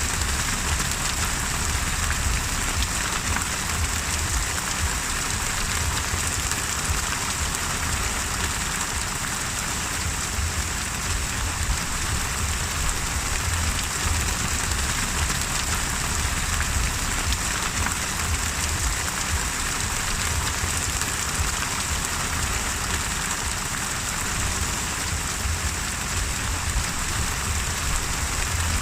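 Steady heavy rain, an even hiss with a low rumble underneath and no distinct thunderclaps.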